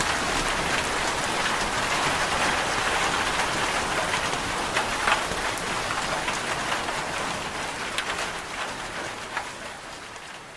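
Steady rain falling, an even hiss with scattered louder drop taps, fading out near the end.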